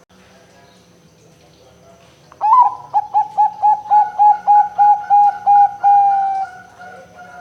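Zebra dove (perkutut) singing: about two and a half seconds in, a rapid run of about a dozen short coos, roughly four a second, ending in one longer note that falls away.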